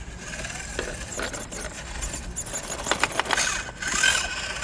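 1/10-scale RC rock crawler's small electric motor whining, with clusters of sharp clicks and knocks as it works over the course.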